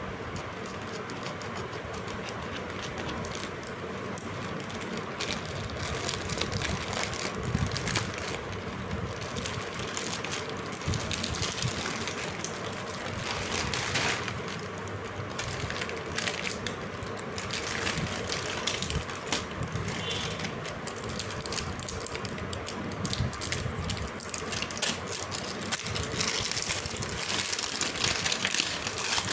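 Plastic packaging crinkling and rustling as it is handled and opened, with dense, irregular crackles throughout.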